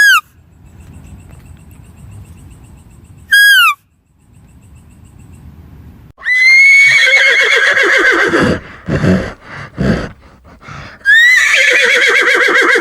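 A horse whinnying twice: each call is long and loud, starting high and falling away in a shaky, rippling pitch, with short bursts of breath between them. Two short falling chirps come before them, at the start and about three seconds in.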